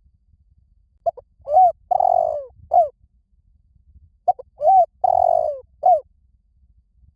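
Spotted dove cooing: two phrases of short, low coos, each with one longer drawn-out note in the middle. The phrases come about a second in and again about four seconds in.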